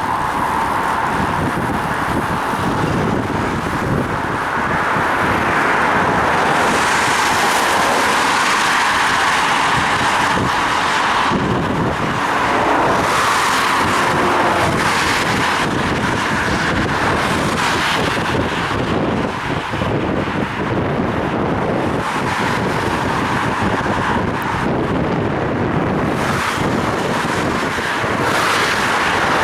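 Steady rush of riding a bicycle in wet weather, picked up by a head-mounted action camera's microphone: wind noise on the mic and road traffic, with a few passing swells of hiss.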